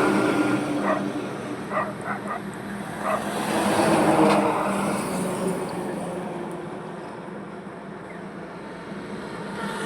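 Road traffic on a highway: one vehicle fades away at the start, another passes about four seconds in, and a steady engine hum continues under the traffic noise.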